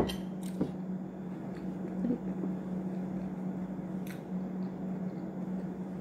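Faint chewing and mouth sounds from eating a croissant, with a few small clicks, over a steady low hum.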